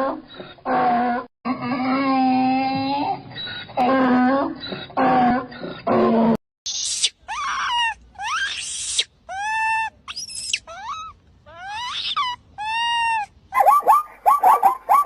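Farm animal calls: a run of about six drawn-out, low, pitched calls, then, after an abrupt cut about six seconds in, a series of separate higher calls that rise and fall, ending in a quick run of short high calls.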